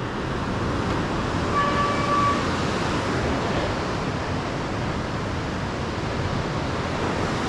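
Steady rushing noise of a mountain bike riding a rocky gravel track: tyres rolling over stones, wind on the microphone, and the flooded river below. A brief thin high squeak sounds about a second and a half in.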